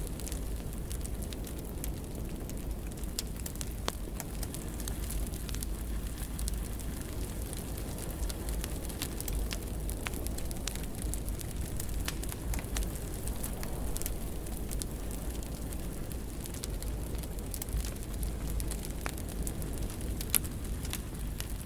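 Fire in a fireplace crackling, with scattered sharp pops over a steady low rumble of the flames; one louder pop near the end.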